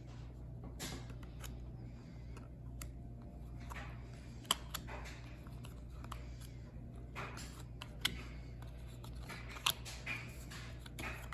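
Trading cards and their packaging being handled: soft rustling with scattered sharp clicks and ticks as cards are flipped and set down.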